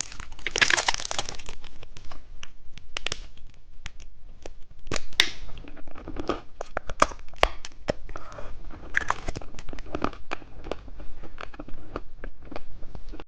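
Plastic candy wrappers crinkling and tearing as the sweets are handled and unwrapped, with many small, irregular crackles and clicks.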